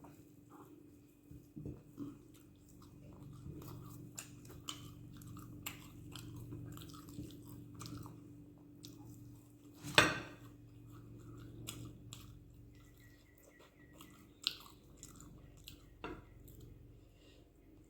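Close-up chewing and wet mouth sounds of a person eating dosa with chutney and gravy, a string of small clicks, with one louder click about ten seconds in.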